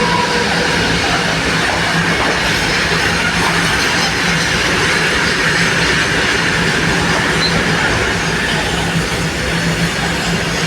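A train running along the rails with a loud, steady, continuous rumble and rail noise that holds an even level throughout.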